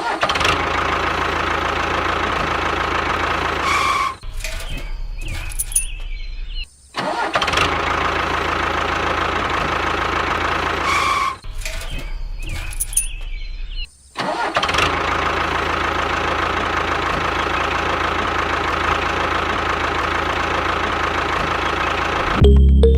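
Small motor running steadily, in stretches separated by brief cuts about 4, 7, 11 and 14 seconds in. Music starts just before the end.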